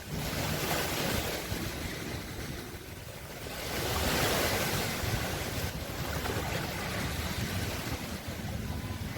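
Sea waves washing onto a shore in a steady rushing noise, with one wave surging louder about four seconds in before falling back.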